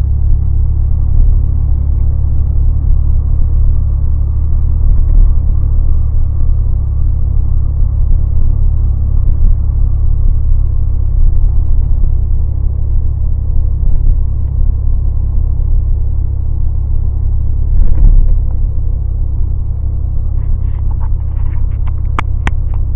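1990 Ford F-150 pickup driving: a steady low rumble of engine and road noise, with one heavier thump about two-thirds of the way through and several sharp clicks near the end.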